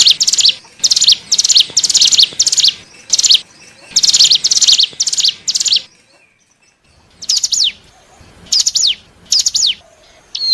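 Ciblek gunung, a prinia, singing: quick bursts of rapid, high, buzzy chirps, then after a short pause about six seconds in, a few sharp notes that sweep downward. This is the call played as a lure to draw in wild birds of the same species.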